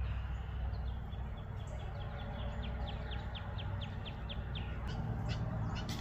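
A songbird singing a long run of quick, downward-slurred notes, about four a second, with a few more scattered chirps near the end, over a steady low rumble.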